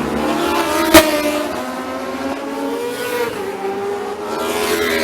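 Racing motorcycles at full throttle going past, several engine notes sliding up and down in pitch as the bikes pass one after another. A single sharp knock about a second in is the loudest moment.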